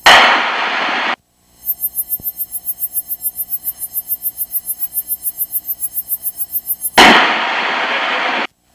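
Two loud bursts of radio static hiss in the cockpit headset audio. One comes at the start and one about seven seconds in; each cuts in suddenly and cuts off after a second or so. Between them runs a rapid pulsing hum of about seven beats a second. The static is typical of an intercom or radio squelch turned open.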